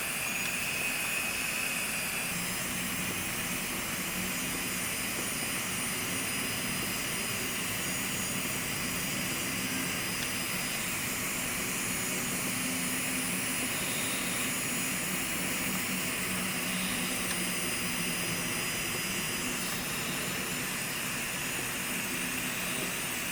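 Electric foot-care drill (rotary file) running steadily on the sole of the foot during corn removal: an even whine over a hiss.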